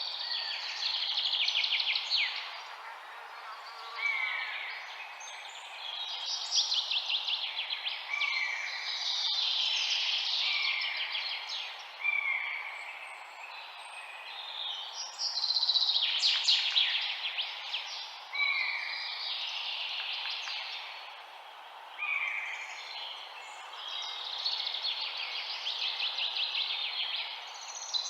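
Songbirds singing: rapid trilled phrases and short down-slurred notes repeating every few seconds, over a steady background hiss.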